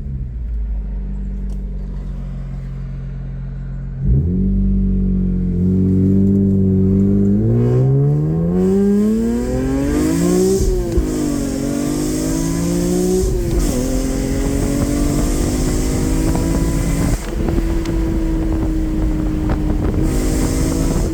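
BMW E46 M3's S54 straight-six through an aftermarket Valvetronic exhaust, under acceleration. It runs steadily for about four seconds, then gets suddenly louder and the revs climb. The revs drop at a gear change, climb again, then settle into a steady cruise with slowly falling revs, with wind noise from about eight seconds in.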